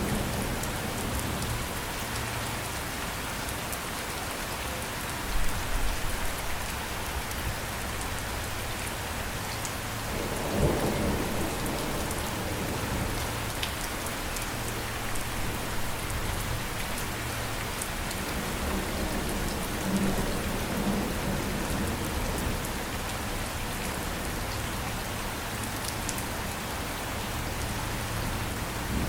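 Steady heavy rain falling, with a few low rolls of thunder rising out of it.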